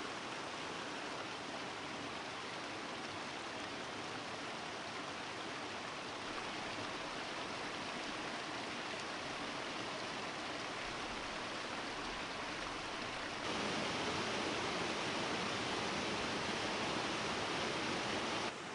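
Steady rushing of waterfall water. It gets louder about two-thirds of the way through, then drops abruptly near the end.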